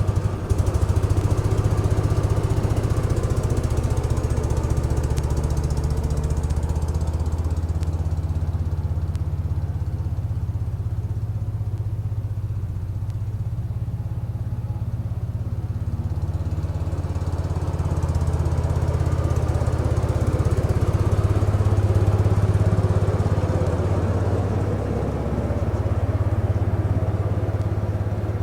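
Small garden-tractor engine of a 1975 Case 224 running steadily, with a snow thrower in use. The higher-pitched part of the noise thins out in the middle and builds again toward the end.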